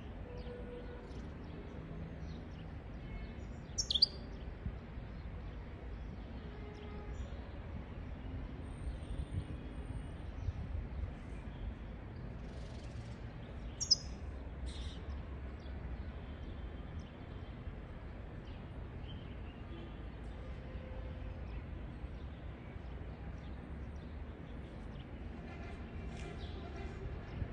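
European goldfinch giving scattered short, sharp chirps over steady low background noise, with two louder chirps about 4 and 14 seconds in.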